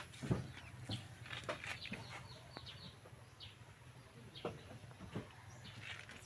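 Small birds chirping on and off in short, scattered notes, over a faint steady low hum.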